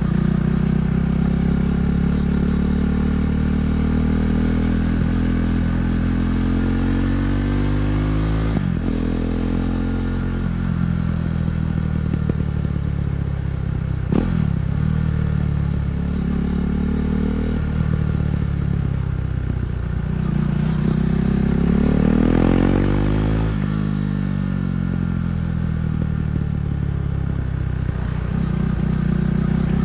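KTM 390 Duke's single-cylinder engine running through an Akrapovic exhaust while riding: the engine note climbs and drops repeatedly, with sudden falls in pitch at gear changes and a longer rev-up about two-thirds of the way in.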